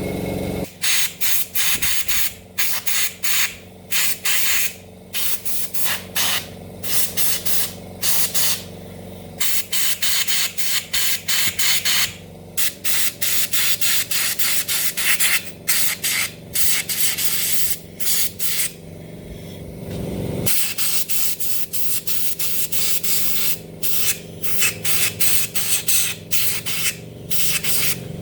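Spray hissing in many short bursts with brief gaps between them, over a faint steady hum, with a short low rumble about twenty seconds in.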